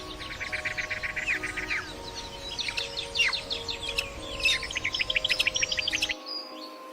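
Several songbirds calling and singing: a rapid trill of repeated notes, sharp down-slurred whistled notes, and a second fast run of notes about four and a half seconds in.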